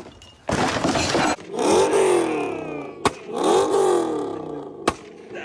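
Hemi V8 with a loud aftermarket exhaust revved hard twice, each rev climbing and falling back, with sharp exhaust cracks between the revs and a burst of crackle after the first. These are the pops of a pop-and-flame tune, shooting flames from the exhaust.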